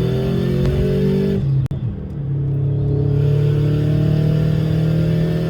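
Subaru WRX's turbocharged flat-four engine pulling hard, its note rising in pitch. It cuts out briefly with a click about a second and a half in, then picks up and climbs again.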